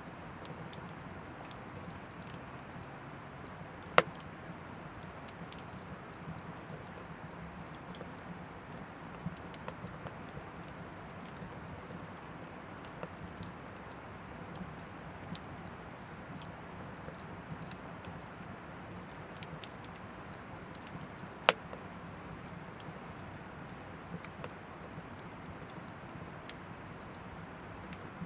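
Oak firewood burning in an Anevay Frontier Stove Plus wood stove: a steady hiss of flames with scattered small crackles throughout. Two sharp, loud pops stand out, one a few seconds in and another about three quarters of the way through.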